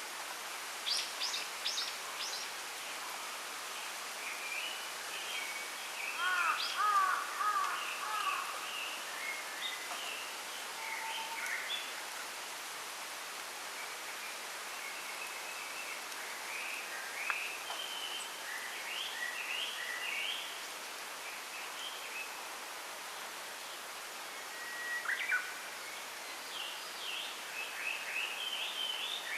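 Small wild birds chirping and singing: scattered short high calls throughout, with a quick run of arching notes about six seconds in. Under them runs a steady hiss of wind through bamboo.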